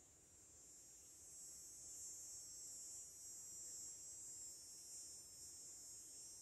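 Faint, steady, high-pitched insect drone, growing louder over the first two seconds and then holding.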